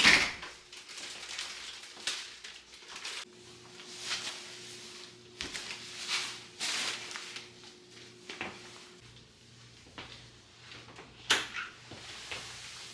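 Household handling noises: a sharp knock at the start and another near the end, with softer scrapes and slides between, over a faint steady hum.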